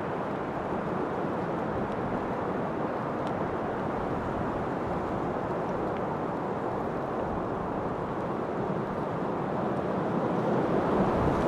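Steady wind, a dull even rushing that swells a little louder near the end.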